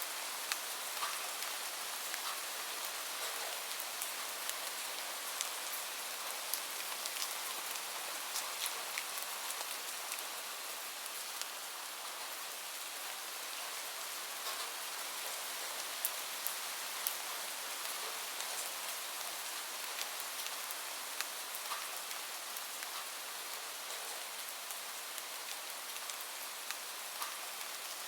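Steady rain falling, an even hiss, with frequent short sharp pops and crackles from a wood fire scattered through it.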